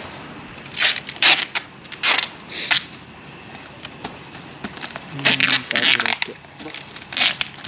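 Plastic packing wrap being handled, crinkling and tearing in several short bursts.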